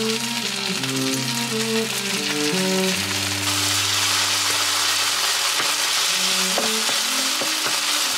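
Rice and spicy braise sauce frying in a hot nonstick pan, a steady sizzle as a spatula stirs it through.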